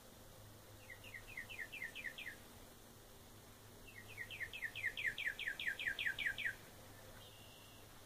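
A bird singing two phrases of quick, evenly repeated downslurred whistled notes, about five a second: a shorter series about a second in, then a longer, louder one of a dozen or more notes near the middle. The species is unidentified.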